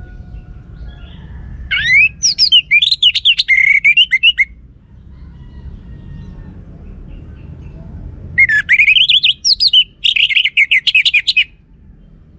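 Orange-headed thrush singing two loud bursts of song, each opening with a rising whistle and running into a quick string of varied whistled notes, with a pause of a few seconds between them. A low steady rumble sits underneath.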